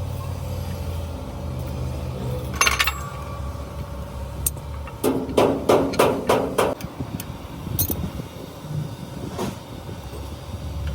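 A quick run of about six hammer blows on metal, roughly three a second, comes about five seconds in, with a sharper knock shortly before. A low engine-like rumble runs under the first few seconds and then fades.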